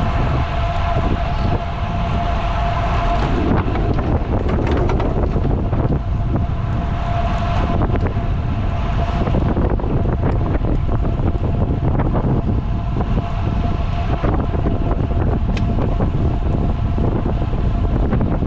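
Wind buffeting the microphone of a camera riding along on a moving road bicycle: a loud, steady rushing noise heaviest in the lows, with a thin steady whine that comes and goes.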